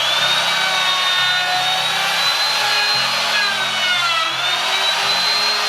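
Electric router rounding over the edges of a hardwood slat, running steadily with a high whine that sags in pitch under load about four seconds in. Background music plays underneath.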